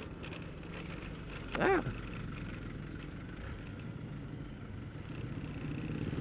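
Motorcycle engine running steadily under the rider's on-board microphone, with road and wind noise. About a second and a half in, a short, loud sound falls sharply in pitch.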